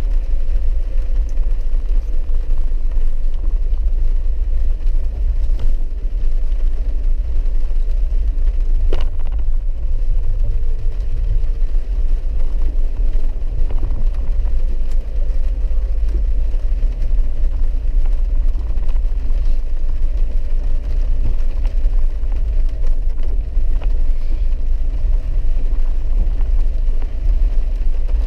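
A vehicle driving on a rough, muddy dirt road, heard from inside the cabin: a steady, heavy low rumble of engine and road noise, with one short click about nine seconds in.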